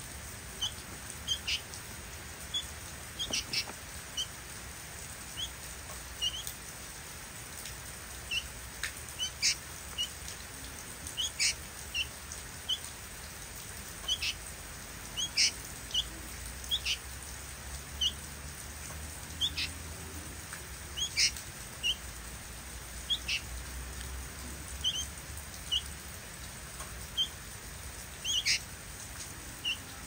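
Fledgling birds giving short, high chirps, repeated irregularly about every second or two.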